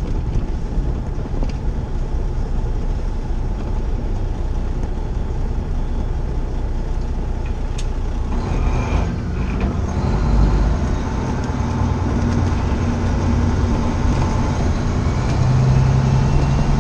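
Semi truck's diesel engine running with road noise while driving. The engine note grows louder and stronger about halfway through.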